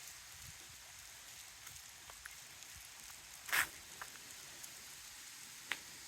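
Faint, steady outdoor hiss with a few light ticks, one short louder scuff about three and a half seconds in, and a sharp click near the end.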